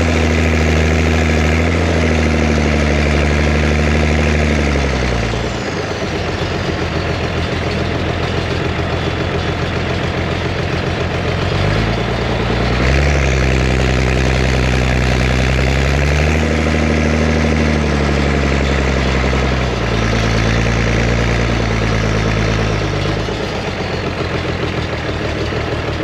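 Zetor Crystal 16145 tractor's six-cylinder diesel engine being revved and let fall back to idle. It runs at raised revs, drops to a low idle about five seconds in, climbs again near the middle and holds there, then drops to idle near the end.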